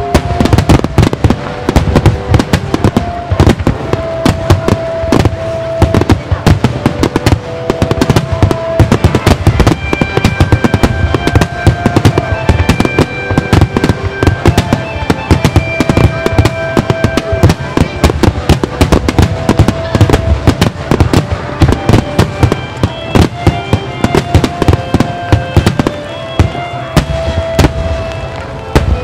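A starmine fireworks barrage: shells launching and bursting in rapid, overlapping succession, several loud bangs a second, with music playing under the booms.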